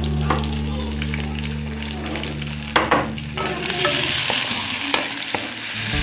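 Shallots, garlic and chili frying in oil in a wok, with a few sharp knocks a little before the middle as tomato pieces go into the pan, and the sizzle grows louder from about four seconds in.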